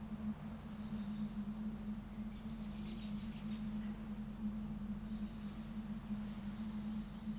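Small birds giving short high trilling calls, three brief bursts a couple of seconds apart, over a steady low hum and rumble.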